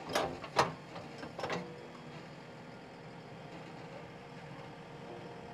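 A few sharp knocks in the first second and a half, then a steady, faint mechanical hum with a thin whine.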